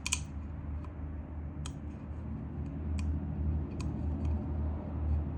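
A few light, sharp clicks and taps from handling the oil filter cap while its new rubber seal is fitted, over a steady low rumble.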